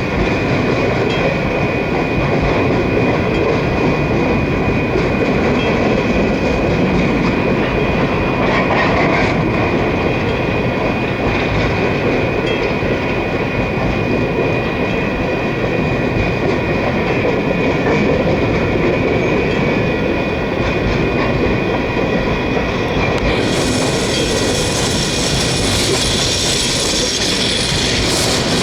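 Empty coal train cars rolling past, a steady noise of wheels on rail with a thin, steady high tone above it. About 23 seconds in, a harsher high-pitched hiss joins in.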